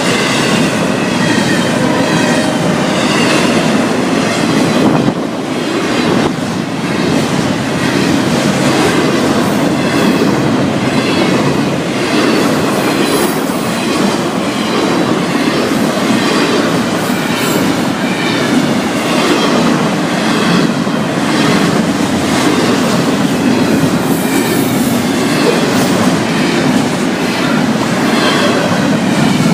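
Long freight train of intermodal cars rolling past at speed, the wheels clicking in a steady rhythm over the rail joints, with some squeal from the wheels.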